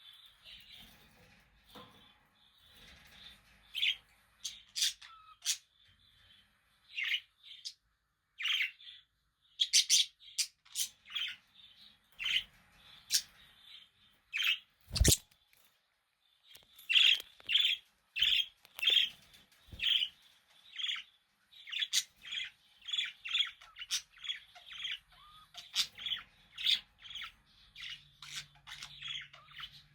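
Budgerigars chirping: many short, quick chirps, scattered at first and coming thick and fast in the second half. One sharp click sounds about halfway through.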